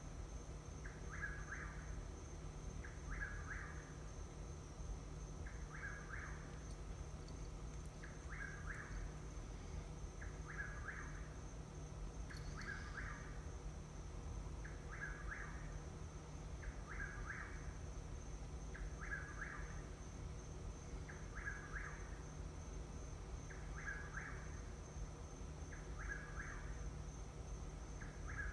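A night-calling bird repeating the same short call over and over, roughly once every two seconds, at an even pace.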